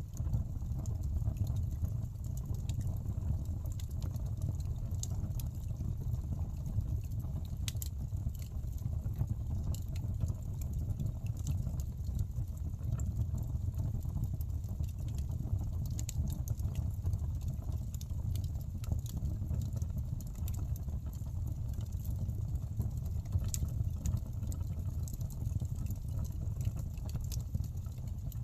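Wood fire burning in a fireplace: a steady low rush of the flames with scattered crackles and sharp pops from the burning logs.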